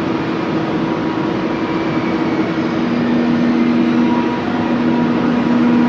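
ICE 3 electric multiple unit pulling slowly into the platform: a steady rushing noise with a hum that steps down in pitch about halfway through.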